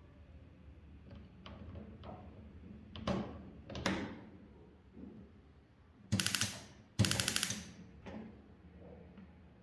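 Gas stove being lit: a few faint clicks, two sharper clicks, then two bursts of rapid ticking from the spark igniter, each lasting about half a second, a second apart.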